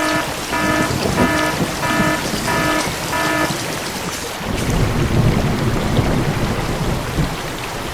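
Repeated electronic beeping, about two beeps a second, that stops about three and a half seconds in. A steady noisy rumble follows.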